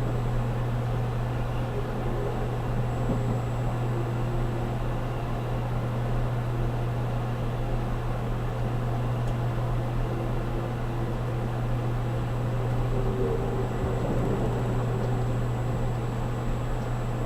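Steady low hum and rumble inside a JR Kyushu 783 series limited express car, with no clear rail-joint clicks.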